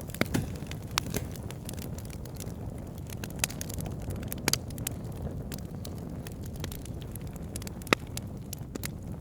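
Wood fire burning in a fireplace: a steady low rumble of flames with scattered sharp crackles and pops, the loudest pop near the end.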